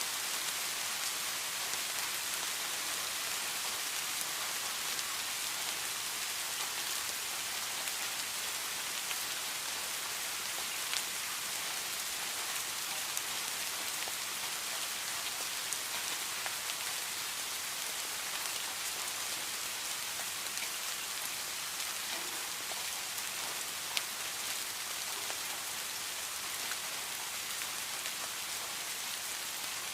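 Steady heavy rain falling, an even hiss with scattered sharper drop hits, one standing out a little before halfway and another about four-fifths of the way through.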